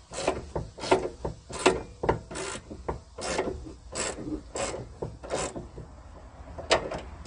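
Hand ratchet wrench being worked in repeated strokes, clicking and rasping about every two-thirds of a second, as a stubborn 7/16 door hinge bolt is backed out of a 1979 Pontiac Trans Am. There is a short pause about six seconds in.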